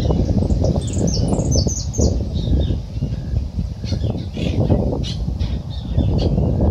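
Small birds chirping: a quick run of short high notes stepping down in pitch in the first two seconds, then scattered chirps, over a steady low rumble.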